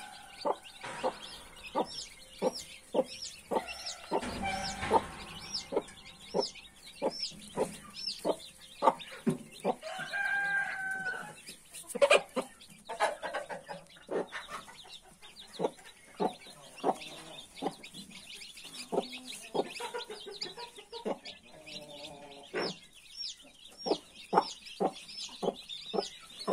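Newly hatched chicks peeping steadily while a mother hen clucks in short, repeated notes. A longer drawn-out chicken call rises over them twice, about ten seconds in and again past twenty seconds.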